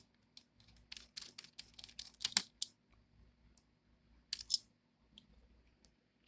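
Small sharp clicks and scrapes of a screwdriver working on the tiny screws that hold a laptop's cooling fans. A quick run of them comes about a second in, and a couple more just past the middle.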